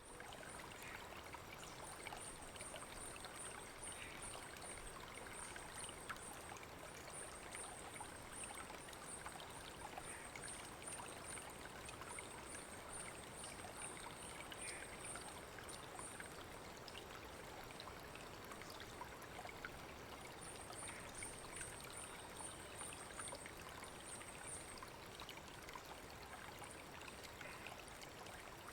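Forest creek flowing and trickling over stones: a gentle, steady rush of water. A high-pitched pulsing call, about two pulses a second, sounds above it, stops about halfway through, then returns briefly.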